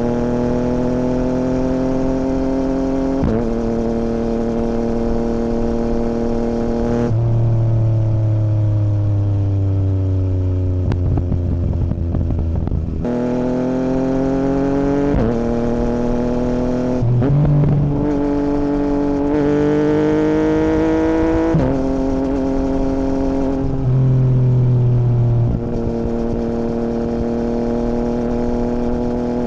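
A 2017 Yamaha MT-09's inline three-cylinder engine running through an Akrapovic full Racing Line carbon exhaust with the dB killer removed, while being ridden. The exhaust note rises and drops as gears change. About a third of the way in, the pitch falls for several seconds as the bike decelerates, then climbs again as it accelerates.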